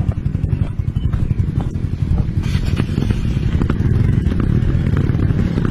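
Off-road motorcycle engine running with a rapid, steady firing beat, overlaid by scattered knocks and rattles.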